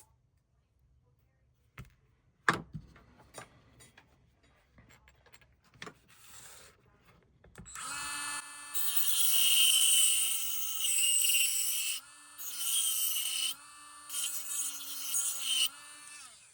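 Small electric rotary tool grinding out plastic from a scale-model engine part. Its motor starts about eight seconds in and runs with a steady pitch that sags slightly under load, while the grinding noise cuts in and out as the bit bites and lifts. Before that there are handling clicks and one sharp knock.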